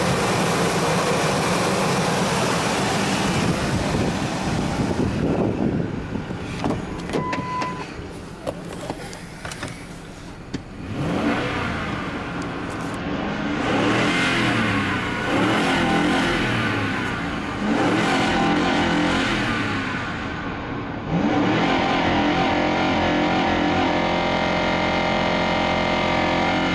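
A 2004 Ford Expedition's V8 running in a test run of the used engine: heard close under the open hood at first, then revved in several quick rises in pitch about two seconds apart, and held at high revs, around 5,000 rpm, for the last several seconds. A short electronic beep sounds about a third of the way in.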